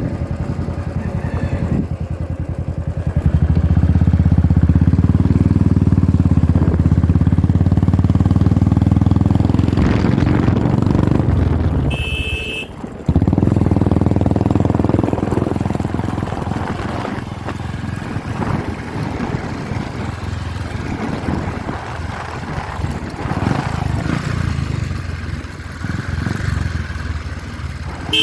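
Royal Enfield Classic 350's single-cylinder engine running through an aftermarket full exhaust system, rising to a louder, steady note a few seconds in. The sound drops out briefly around twelve seconds in with a short high beep, then the exhaust runs on more quietly and unevenly.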